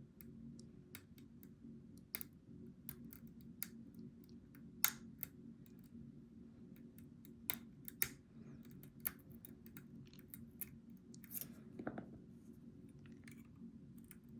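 Steel lock picks clicking and scraping inside a Goal V18 lock as its pins are worked: irregular sharp ticks, a few much louder, and a short scrape near the end, over a steady low hum.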